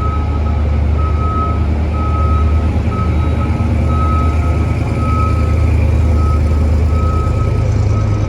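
A vehicle's reversing alarm beeping steadily, a bit under once a second, over the loud, steady low rumble of an engine.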